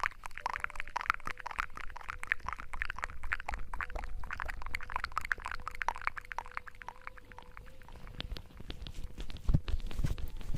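Close-up wet crackling and squishing of hair-washing lather worked close to the microphone, with a few low thumps near the end.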